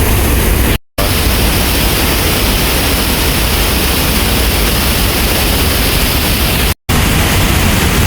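Steady, loud rushing roar of a big waterfall, cutting out abruptly twice for a split second.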